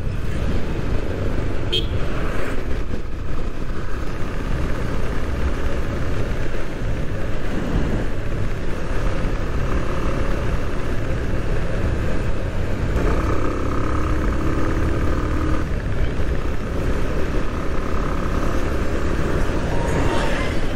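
Bajaj Pulsar 150 motorcycle riding on a town road, its engine running steadily under road and wind noise, with other traffic around. A vehicle horn sounds for about two and a half seconds just past the middle, and a shorter tone follows a few seconds later.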